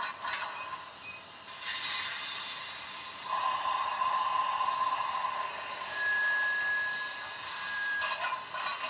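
Model train running on a layout: a steady rushing noise. A brief steady tone sounds about three seconds in, and a higher one about six seconds in.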